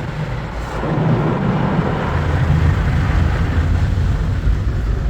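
Mark VII ChoiceWash XT automatic car wash in its soft-touch brush stage: cloth brushes and water working over the car, a dense, steady rumbling wash that grows louder about a second in.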